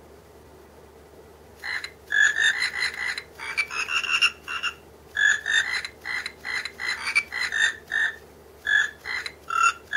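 Electronic frog hand puppet's sound chip playing a Christmas song as a run of short electronic croaks, a few a second, the pitch stepping up and down with the tune. It starts after a quiet stretch of a second and a half or so.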